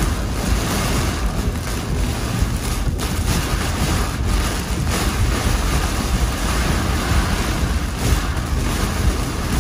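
Heavy thunderstorm rain and wind beating on a car, heard from inside it: a loud, steady rushing noise with a deep rumble underneath.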